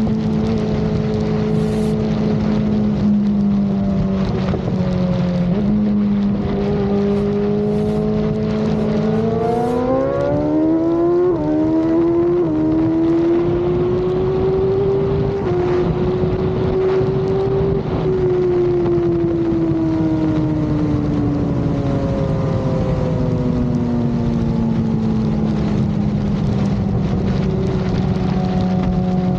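Sport-bike inline-four engine running at steady high revs, then accelerating hard about nine seconds in with two quick upshifts, holding high revs, and slowly winding back down as the throttle eases, over constant rushing noise.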